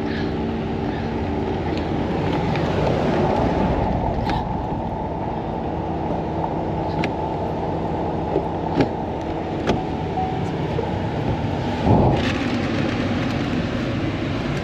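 A car running, with a steady engine hum and road noise. A few short, sharp clicks are heard here and there.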